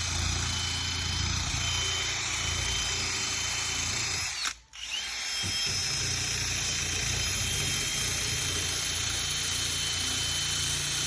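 Electric power sander running steadily on painted sheet metal of a vehicle hood, stripping old paint. It stops briefly about four and a half seconds in and starts up again.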